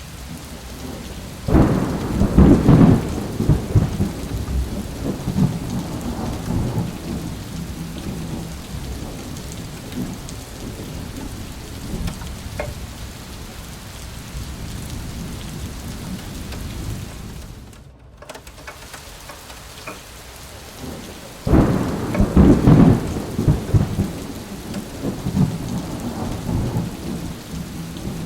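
Rain falling steadily through a severe thunderstorm, with two loud rolls of thunder. One comes shortly after the start and the other about three quarters of the way through; each breaks in with a crackle and rumbles on for a few seconds.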